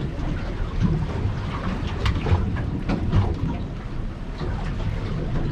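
Wind buffeting the microphone on a small boat, an uneven low rumble, with water slapping the hull and a few light knocks.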